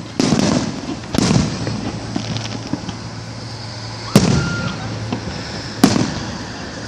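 Fireworks shells bursting: four sharp booms, each trailing off in a rolling echo, two close together near the start and two more a few seconds later.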